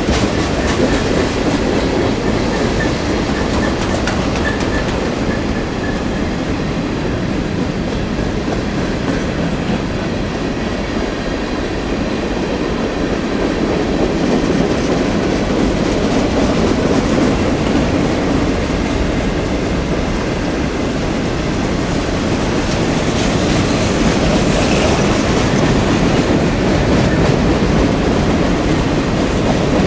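CSX freight train's cars rolling past steadily, their wheels running over the rails, with a faint high wheel squeal for a few seconds near the start.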